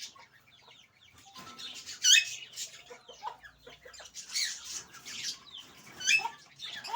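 Sun conures calling: a run of sharp squawks and chatter, loudest about two seconds in and again near the end.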